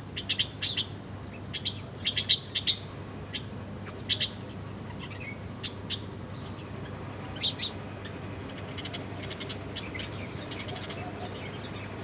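Small birds chirping: short, high, sharp chirps in quick clusters through the first eight seconds or so, thinning out after that.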